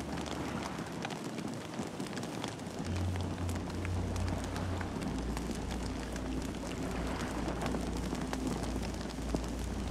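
Campfire burning, crackling with frequent sharp pops and snaps over a steady hiss. A low rumble joins in about three seconds in.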